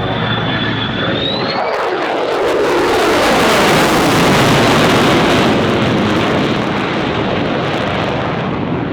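F-35 fighter jet's F135 turbofan roaring past in a low flyby. The roar builds about a second and a half in, peaks midway and eases off, its pitch sweeping downward as the jet passes.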